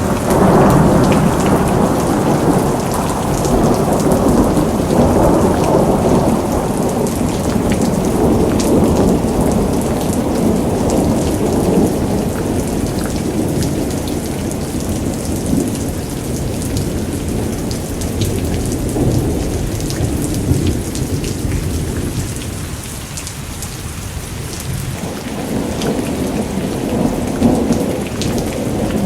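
Steady rain with a continuous low rumble of rolling thunder and the fine patter of drops on surfaces. The rumble eases about two-thirds of the way through and swells again near the end.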